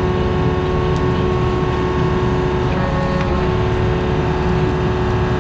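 Diesel engine of a compact earthmoving machine running steadily at working throttle, with a steady whine over the rumble.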